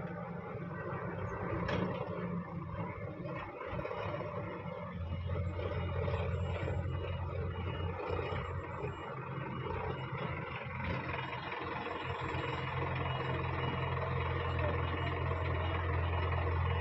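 Heavy diesel engine running steadily with a deep hum that grows noticeably stronger about five seconds in.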